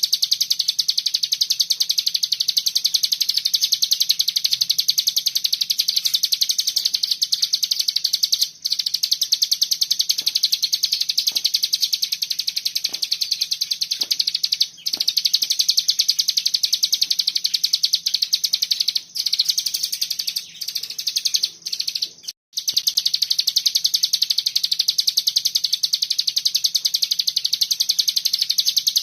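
Cigun songbird singing a long, dense 'bren' trill: a very fast, unbroken stream of high-pitched notes, broken by a few short pauses around the middle.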